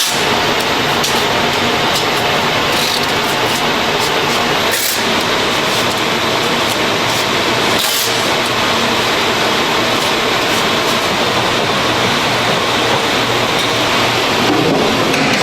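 Car air-conditioner filter production machinery running: a loud, steady mechanical din with scattered sharp clicks and clacks.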